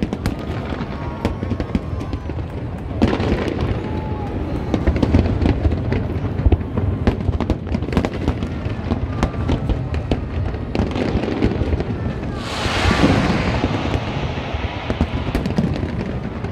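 A large fireworks display: many sharp bangs and cracks in quick succession over a continuous low rumble. About twelve seconds in, a loud rush of crackling hiss swells up and fades over a second or two.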